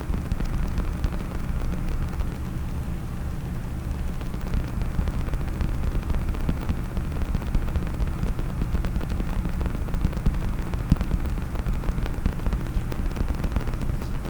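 Fingers tapping and scratching rapidly on a case held close to the microphone: a continuous dense crackle of small clicks over a low thudding rumble.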